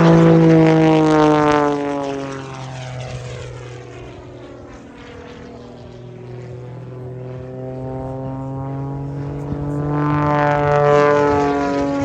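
Extra 330 aerobatic monoplane's piston engine and propeller flying past. Its pitch drops as it moves away and fades, then it grows louder again from about eight seconds in as it comes back, with the pitch falling again near the end as it passes.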